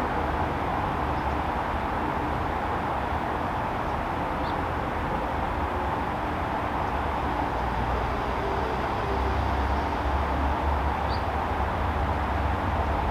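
Steady backyard ambient noise with a low rumble that grows a little louder after about nine seconds, and two faint high chirps.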